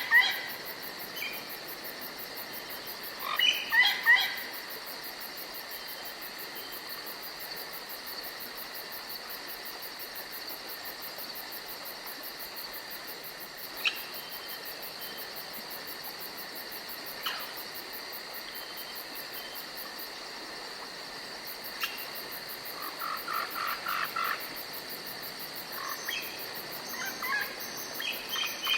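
Forest ambience: birds calling in short clusters of quick notes near the start, a few seconds in, and again in the last few seconds, with a few single chirps between, over a steady high insect-like chirring.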